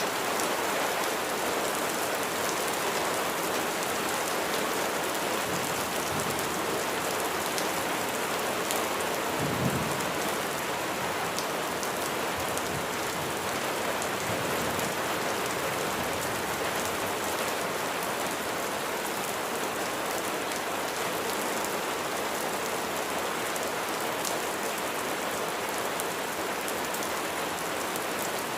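Steady heavy rain falling, with fine drop ticks throughout. A brief low rumble of thunder comes about a third of the way in.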